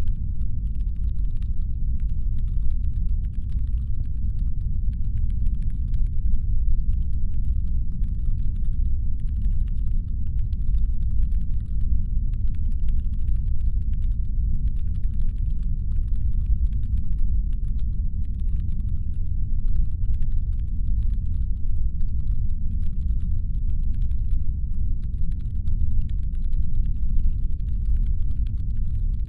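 Steady deep brown-noise rumble standing in for a spaceship's engine hum, with faint, rapid, irregular clicking layered above it.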